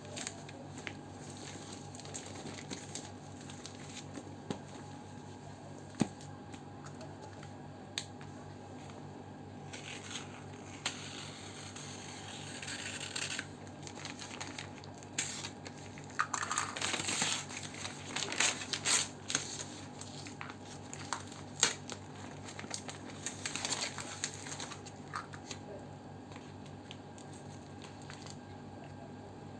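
Packaging being handled and unwrapped: crinkling and tearing of wrapping with scattered sharp clicks and taps, busiest in the second half, over a steady background hum.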